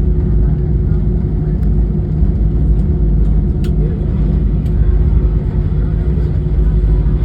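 Airliner cabin noise after landing: a steady, loud low rumble of the engines and airflow with a constant hum, as the aircraft slows and taxis.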